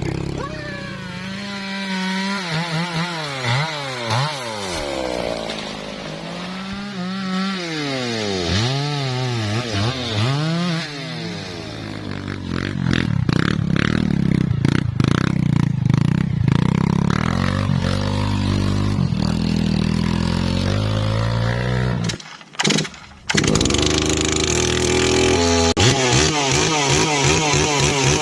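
Two-stroke chainsaw revving up and down repeatedly, then running loud and steady at high revs as it cuts into teak timber. The sound drops out suddenly for about a second around twenty-two seconds in, then the saw runs steadily again.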